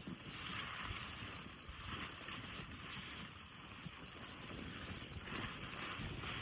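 Blizzard wind blowing in gusts, a rushing hiss that swells and eases every second or two over a low rumble of wind buffeting the microphone.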